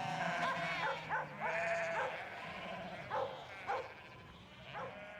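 Sheep bleating as a flock, many overlapping wavering calls coming one after another and fading toward the end, over a steady low hum.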